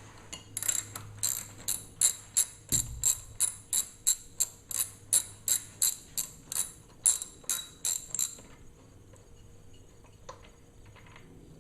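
Socket ratchet wrench clicking in quick repeated strokes, about three a second, stopping about eight seconds in. It is most likely backing out the spark plug of a seized two-stroke outboard.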